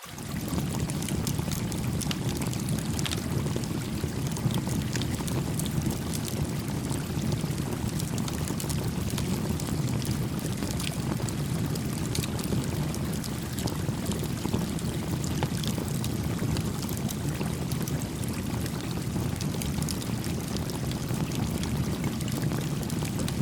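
A small campfire crackling beside a gently flowing stream: a steady low rush of water, with scattered pops and snaps from the burning wood throughout. The sound dips briefly at the very start, then carries on evenly.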